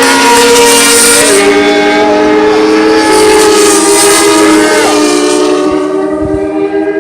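Several racing motorcycle engines running at high revs together, their pitch shifting a couple of times, then fading as they move away near the end.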